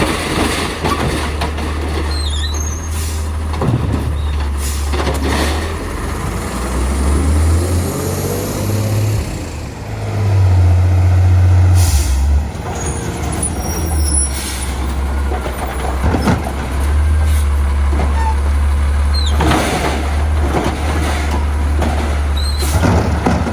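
Diesel engine of an Autocar side-load garbage truck running steadily, revving up twice around the middle, with several short hisses of air from the air brakes.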